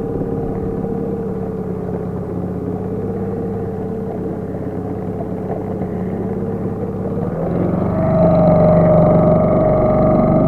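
HDX T 2.6 two-stroke outboard motor running steadily during its break-in. About seven seconds in its note rises and grows louder as it speeds up, then holds at the higher speed.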